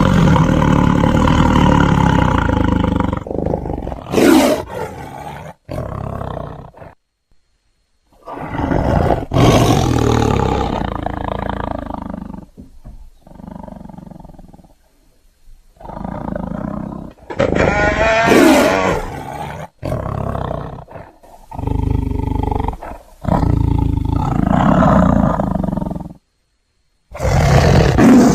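A series of tiger roars and growls blended with hyena calls, heard as separate loud calls several seconds long with short pauses between them; one call in the middle wavers up and down in pitch.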